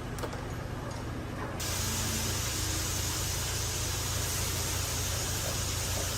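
A steady spray hiss that starts about a second and a half in, over a low machine hum: pressurised spraying, as in washing or blowing down a vehicle.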